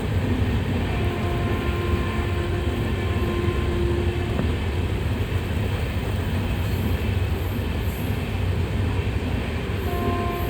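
A train hauled by a WAP7 electric locomotive running with a heavy, steady rumble. A steady horn tone sounds for about three seconds starting about a second in, and again near the end.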